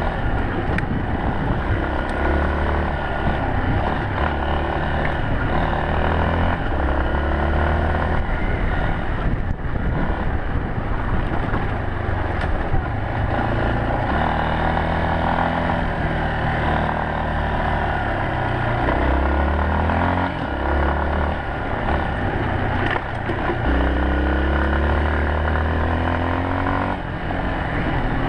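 Yamaha Serow 250's air-cooled single-cylinder four-stroke engine under way, its pitch rising and falling repeatedly with throttle and gear changes, over steady wind and road noise.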